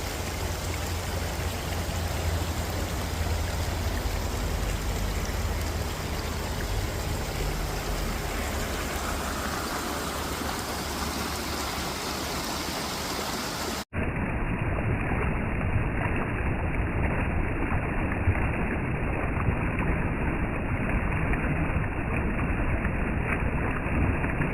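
Creek water running, a steady rushing noise, with a low rumble under it in the first half. Near the middle it cuts out for an instant, and after that the rush goes on sounding duller.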